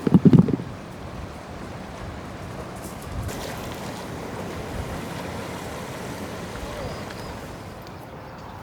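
Ocean waves washing steadily onto the shore. A few loud, low thumps come in the first half second.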